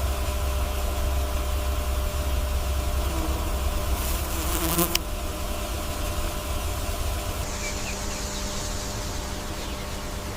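A steady, unchanging buzzing hum over low rumble and hiss, with a brief click about five seconds in.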